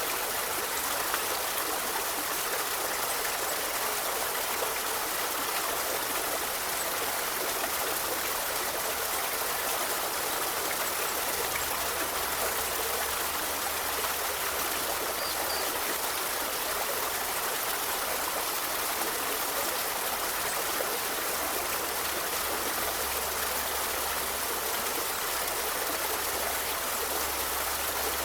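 Forest river or stream flowing, a steady rush of running water with no distinct splashes or changes.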